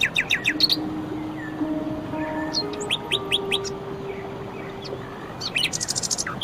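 Songbirds singing: groups of quick, sharp descending chirps at the start, around the middle and near the end, the last a fast trill, over soft held low tones.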